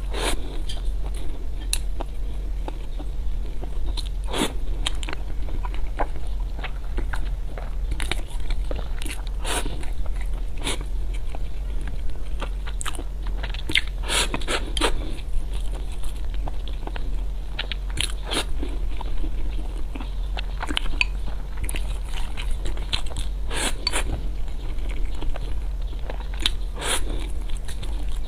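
Close-miked eating: biting and chewing crunchy food, with irregular crunches and wet mouth clicks, over a steady low hum.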